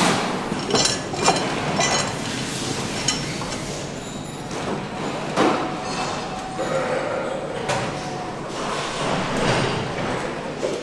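Assembly-line noise: metal parts and tools clinking and knocking at irregular moments over a steady background of machinery.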